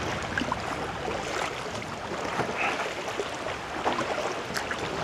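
Kayak paddling: water swishing and splashing with the paddle strokes, with scattered small drips and clicks.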